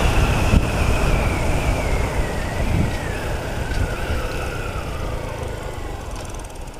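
Honda Titan 150 single-cylinder motorcycle engine running at speed under heavy wind rumble. Its note falls steadily in pitch over several seconds as the bike slows after a run, and the sound grows fainter toward the end.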